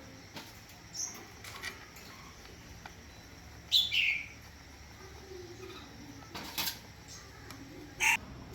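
A bird's short call sliding downward in pitch, about halfway through, with a few sharp clicks scattered around it.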